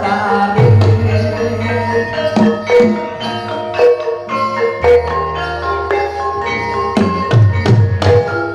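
Javanese gamelan music accompanying a jathilan dance. Bronze metallophones play a ringing melody of struck notes, kendang drum strokes bend in pitch, and a deep gong-like tone enters about five seconds in.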